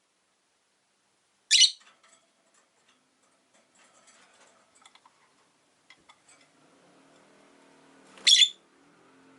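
Rosy-faced lovebird giving two short, loud, high-pitched calls about seven seconds apart, with faint chirps and clicks in between.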